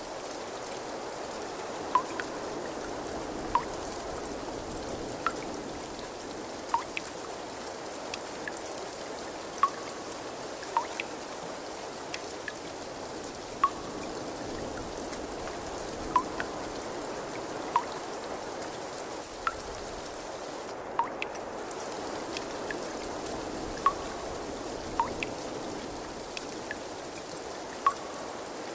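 Water drops plinking into water at irregular intervals, about one every one to two seconds, over a steady trickling, running-water sound.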